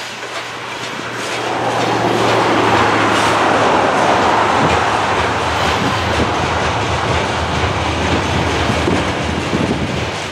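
Freight train's covered hopper cars rolling past, their wheels rumbling and clicking over the rail joints. The sound swells about a second and a half in, then holds steady.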